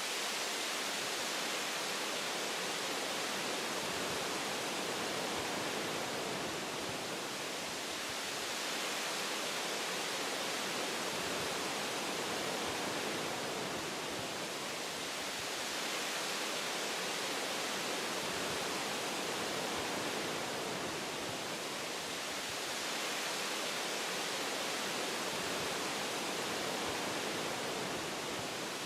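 Wind blowing through forest tree branches: a steady, even hiss that swells and eases gently every several seconds.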